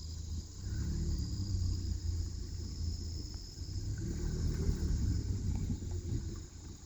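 Low, steady rumble of a car driving slowly, with a steady high drone of insects.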